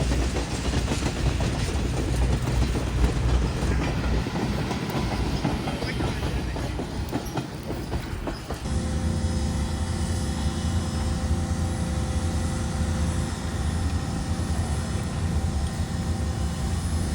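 Freight train cars rolling past, their wheels clicking over the rail joints with a rumble. About eight and a half seconds in, the sound changes abruptly to a steady hum with a few held tones.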